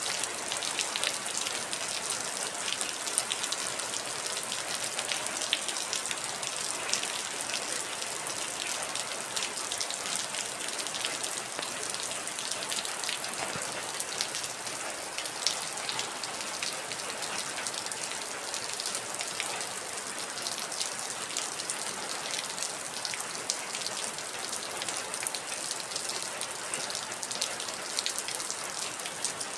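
Heavy rain falling steadily, a dense hiss with many sharp individual drop splashes.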